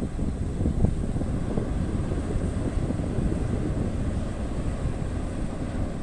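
Low, steady rumble of an arriving car ferry, with wind buffeting the microphone.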